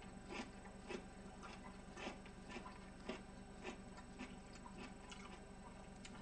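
A person chewing food close to the microphone: faint, regular mouth clicks about twice a second.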